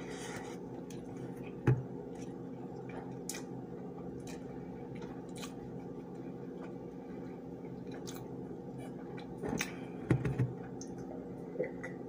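A person chewing food close to the microphone, with small scattered mouth clicks, over a steady low hum. A sharp knock comes about two seconds in, and a few louder knocks on the table come near the end.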